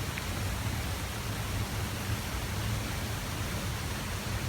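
Steady rush of a waterfall's falling water, an even roar without breaks.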